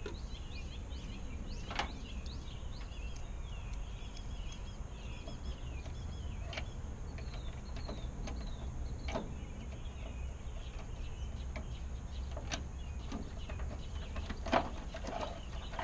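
Scattered sharp clicks and knocks of hand tools on metal, about six over the stretch, the loudest near the end, as bolts on a truck's turn-signal housing are worked loose. Under them runs a steady low outdoor rumble, and small birds chirp during the first few seconds.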